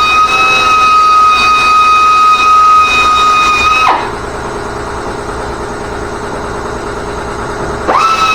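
A small high-speed motor whining at a steady high pitch. About four seconds in it drops sharply in pitch and level, runs lower and quieter for a few seconds, then spins back up to the high whine near the end.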